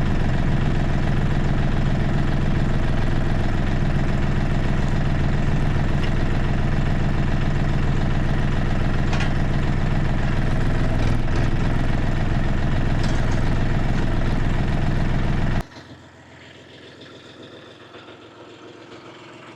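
A compact tractor's diesel engine running steadily at idle, then cut off abruptly about three-quarters of the way through, leaving only faint background sound.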